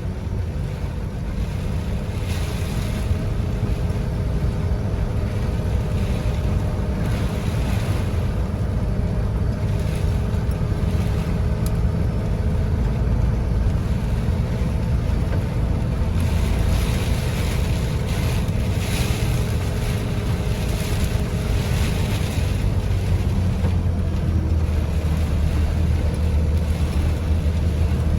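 Heavy rain and wind, swelling and easing in gusts, over the steady low hum of a running vehicle engine.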